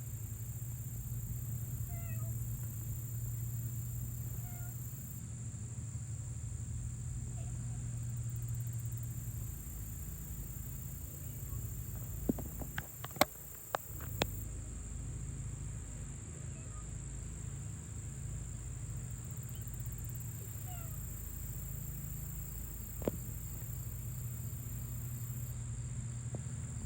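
Kittens mewing faintly a few times over a steady low hum and a high steady buzz, with a few sharp clicks about halfway through.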